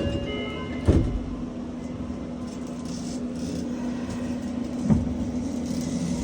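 Inside a subway car: the last notes of the door chime, then the doors thud shut about a second in. A steady hum runs under it, with another thud about five seconds in.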